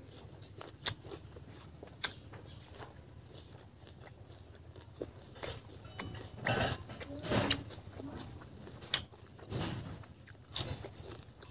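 Close-up eating sounds of a person chewing barbecued pork: scattered sharp mouth clicks, then louder bursts of chewing from about halfway through.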